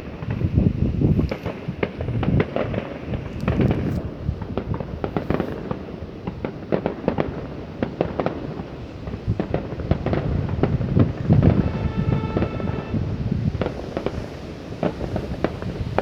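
A dense, unbroken barrage of fireworks: many bangs and booms overlapping with no pause. About twelve seconds in, a short pitched tone sounds over the bangs.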